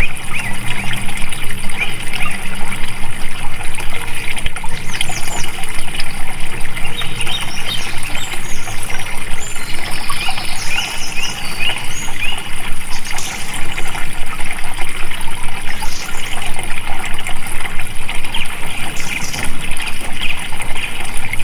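Water flowing and splashing steadily, as from a stream, with birds chirping in short calls, mostly through the middle stretch.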